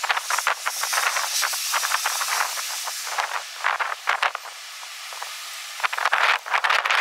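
Strong gusty wind: a rushing hiss that swells and eases in gusts, with crackly rustling through it.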